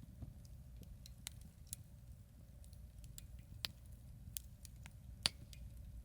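Wood campfire crackling, with sharp pops at irregular intervals, the loudest about five seconds in, over a low steady rumble.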